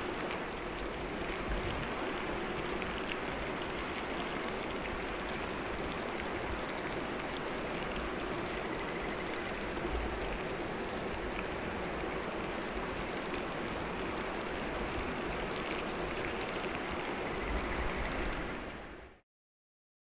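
Food sizzling steadily in a frying pan over a campfire, with small scattered pops; the sound fades out and stops abruptly about a second before the end.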